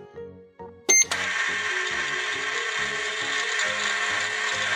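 A toy magic microwave dings once about a second in, then runs with a steady mechanical whirring, over soft background music.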